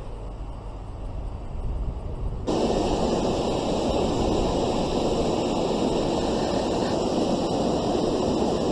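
Wind blowing across the microphone: a low rumble at first, then from about two and a half seconds in a sudden, louder steady rushing hiss.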